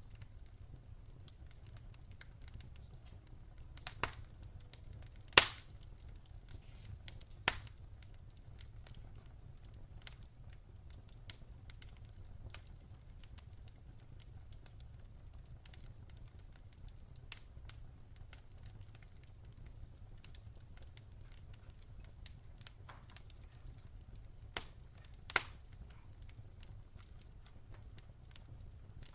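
Campfire crackling: a low steady rumble with scattered sharp pops and snaps of burning wood, the loudest pop about five seconds in and a pair near the end.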